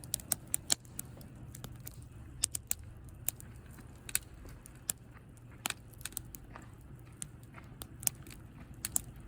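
Campfire of hinoki asunaro (ate) stick firewood crackling: sharp pops at irregular intervals, some in quick clusters, over a low steady rumble of the fire.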